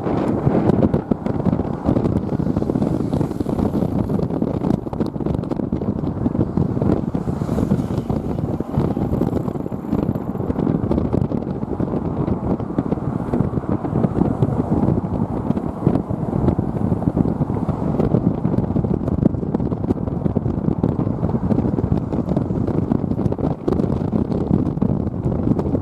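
Strong wind buffeting the microphone, a continuous low rumbling roar that flutters with the gusts.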